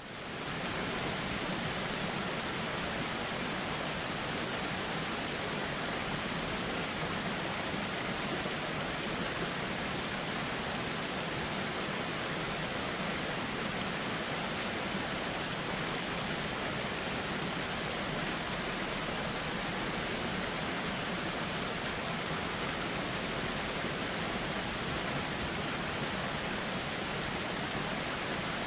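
Steady rushing of a flowing river, an even wash of water noise that fades in at the very start and then holds unchanged.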